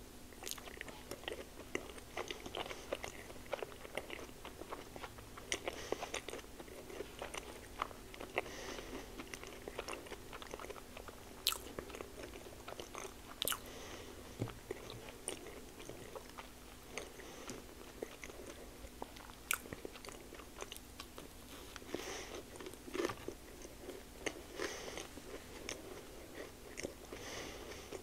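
Close-miked chewing of a blueberry pancake-wrapped sausage: soft wet mouth sounds and bites, with a few sharp clicks scattered through.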